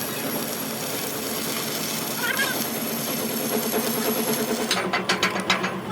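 Steady hissing workshop noise from steel fabrication work, then a fast run of sharp metal strikes, about five or six a second, in the last second.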